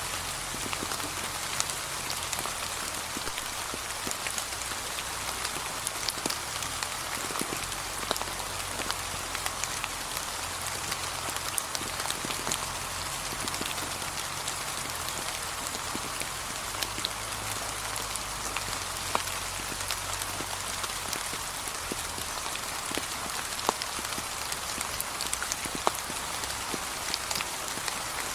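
Gentle steady rain falling on fallen autumn leaves: an even patter with many small separate drop ticks scattered throughout.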